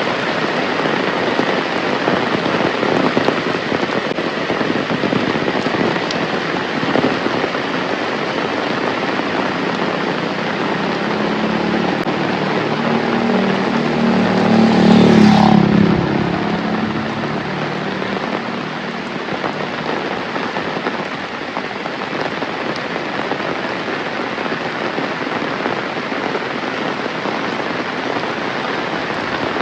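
Heavy rain pouring steadily onto surfaces. Midway through, a motor vehicle approaches and passes, its engine loudest about halfway in before fading quickly.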